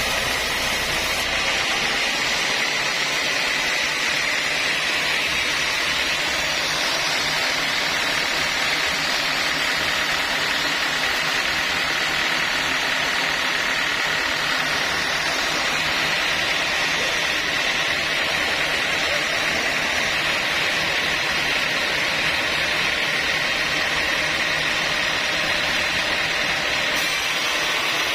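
Sawmill saw running steadily: a constant noisy hiss with a steady high whine, unchanged throughout.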